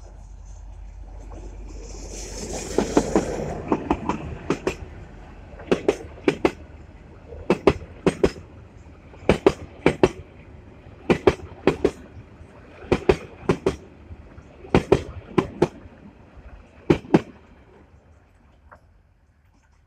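Freight train hauled by an old EMD B12 diesel locomotive passing: the locomotive's noise swells and peaks a few seconds in, then the loaded wagons' wheels clack over a rail joint in pairs of knocks about every two seconds, dying away near the end.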